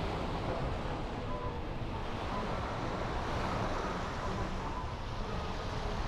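Wind buffeting the microphone outdoors by the sea, a steady low rumble under a rushing hiss.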